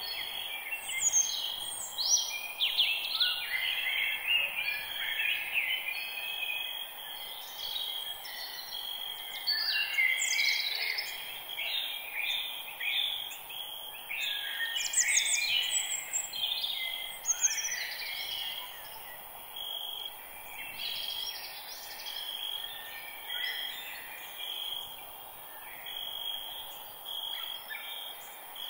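Forest ambience: several songbirds singing and chirping in overlapping short phrases over a steady background hiss, with a thin steady high note underneath that may be insects.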